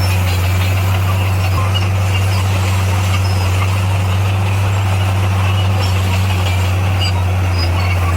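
SDLG motor grader's diesel engine running at a steady speed: a deep, even drone that holds one pitch throughout.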